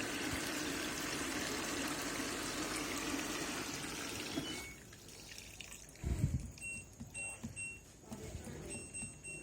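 Water running in a steady rushing stream that cuts off about four and a half seconds in. A low thump follows, then a few short, high electronic beeps.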